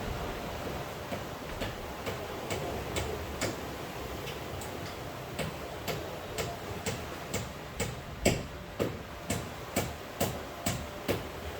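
Sharp, regular taps about two a second, louder in the second half, over a steady rushing background.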